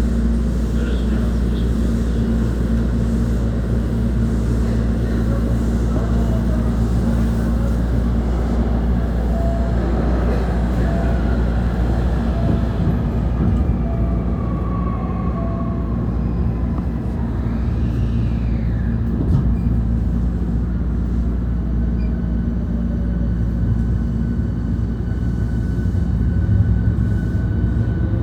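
Hankyu 1300-series train interior with the steady hum of its onboard equipment, as heard with the train standing at a station. A rising tone begins at the very end, typical of the Toyo IGBT-VVVF inverter starting to accelerate the train.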